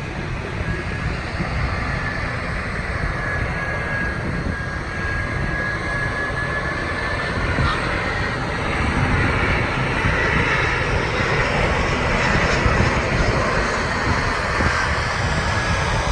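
Airliner's engines running loud and steady, with a high whine over the rumble that dips slightly in pitch and rises again, the noise growing a little louder after the middle.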